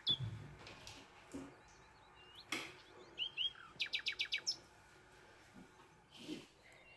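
A small bird chirping: a few short rising chirps, then a quick run of about seven sharp notes just past the middle. There is a single soft knock about two and a half seconds in.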